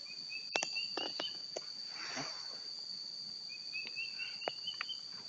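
A bird calling in two runs of short notes that step up in pitch, over a steady high-pitched insect drone, with a few sharp clicks.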